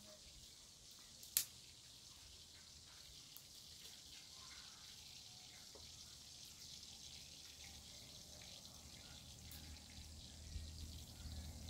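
Faint, steady sizzle and crackle of food frying in a pan over a wood fire, with one sharp click about a second and a half in.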